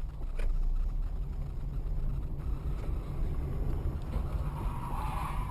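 Steady low road and engine rumble of a moving car, as picked up by a dash camera, with a brief higher-pitched sound near the end.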